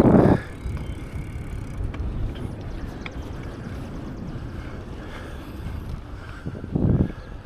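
Bicycle ride: a steady low rumble of wind on the microphone and tyres on pavement, with a short louder burst right at the start and another near the end, and faint rapid ticking for about a second in the middle.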